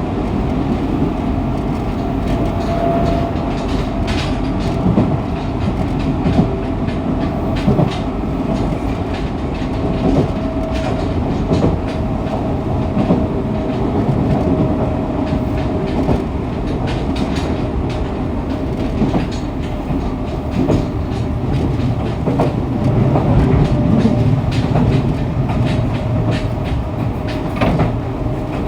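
Fukuoka City Subway 2000 series electric train running at speed, heard from the car floor: a steady rumble of wheels on rail with frequent clicks of wheels over rail joints.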